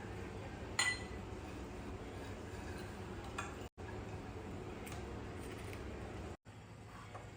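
Kitchenware clinking: one sharp, ringing clink about a second in and a few fainter clicks, over a steady low hum.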